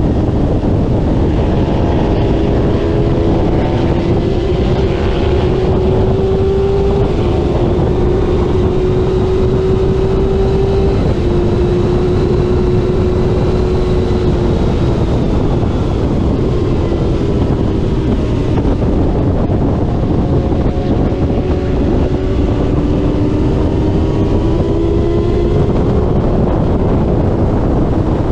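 Middleweight racing motorcycle engine at full throttle, heard onboard under heavy wind noise on the microphone. The engine note climbs and steps down at each upshift in the first half, falls away around the middle as the bike slows, and climbs again near the end.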